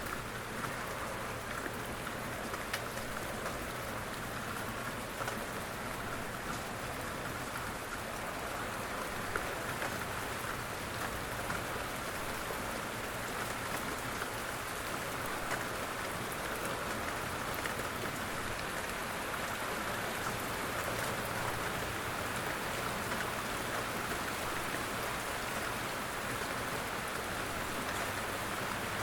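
Steady rain falling on a surface, a constant hiss with many small drop ticks.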